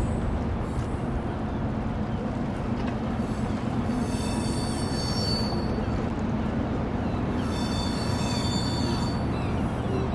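Steady low rumble of dockside machinery, with two long, high-pitched metallic squeals, the first about four seconds in and the second near the end.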